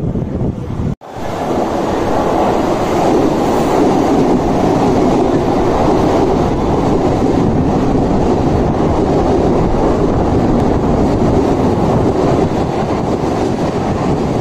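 Mumbai local electric suburban train running along a station platform: a steady rumble of wheels on rails, with a brief drop-out about a second in.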